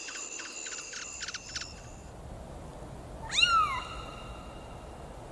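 A cat meowing once, a single rising-then-falling call about three seconds in. Before it, a rapid rhythmic ticking with steady high tones stops about two seconds in.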